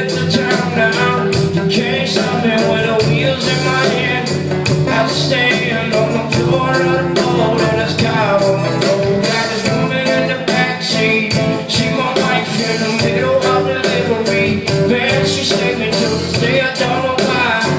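Live band playing an instrumental passage with a steady beat, recorded from the audience.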